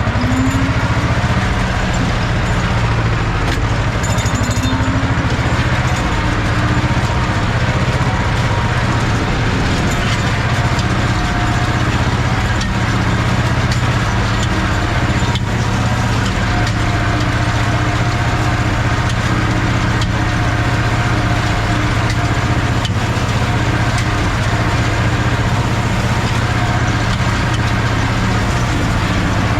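Ursus C-330's two-cylinder diesel engine running steadily while the tractor rakes hay with a SaMasz rake, its pitch rising briefly near the start.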